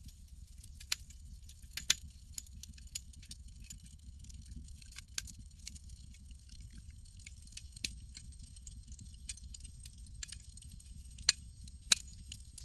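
Campfire burning: a steady low rumble of flames with scattered crackles and sharp pops, the loudest about two seconds in and twice near the end.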